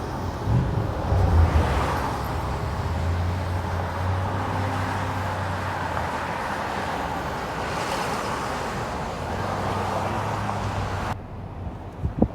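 Steady road noise of a car being driven, with passing traffic swelling twice; it drops away abruptly near the end.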